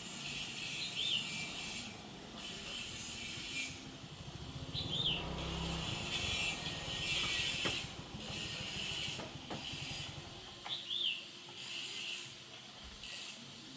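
Small motorbike engine running while riding, with a rapid low pulsing under a steady hiss that grows louder in the middle. A few short high chirps sound over it.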